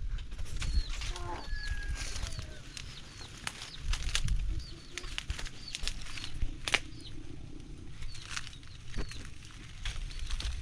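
Small birds chirping: many short, quick chirps repeating throughout, over a low rumble, with scattered sharp clicks and knocks.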